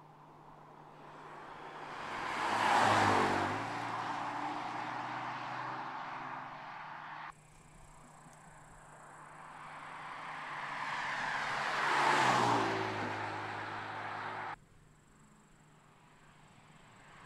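BMW M4 Convertible's twin-turbo straight-six passing by twice: each time it grows louder to a peak, then its engine note drops in pitch as the car goes away. Each pass is cut off abruptly.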